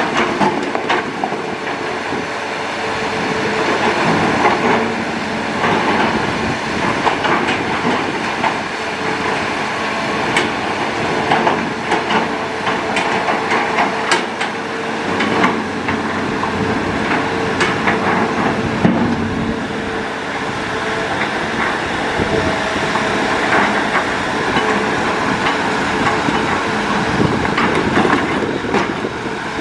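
Hitachi Zaxis excavator at work: its diesel engine running steadily under load, with repeated clanks and knocks throughout.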